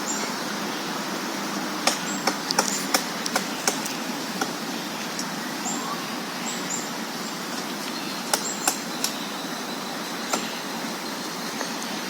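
Woodpecker pecking at a tree: single sharp wooden taps, about six spaced a third of a second apart around two seconds in, then a few more around eight to ten seconds in, over steady background noise.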